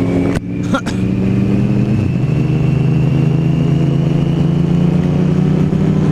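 Motorcycle engine running under way, steady and loud, its pitch dipping about two seconds in and then holding and creeping slowly upward. Two brief knocks in the first second.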